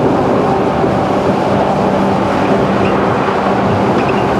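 Running noise of a JR 211 series electric multiple unit at speed, heard inside the passenger car: a steady rumble of wheels on the rails, with a low steady hum joining about a second in.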